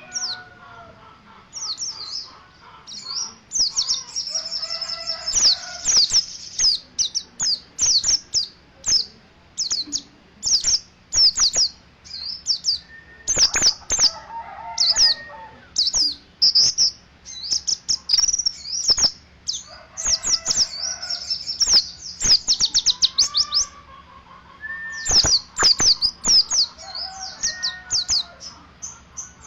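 A yellow-breasted white-eye (pleci dakun) singing a rapid, high-pitched chattering twitter in long bursts with short breaks: the fast 'ngeriwik' style prized in songbird keeping. Fainter, lower calls from other birds sound now and then behind it.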